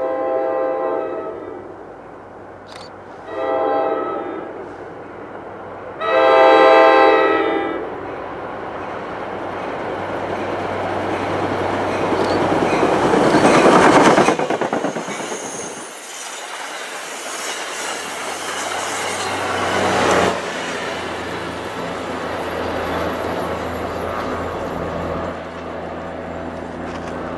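Commuter train's air horn sounds a long blast, a short one, then another long one, followed by the rising clatter of the Comet V cars' wheels on the rails as the train passes. In the last part the steady running of the F40PH-3C diesel locomotive pushing at the rear goes by.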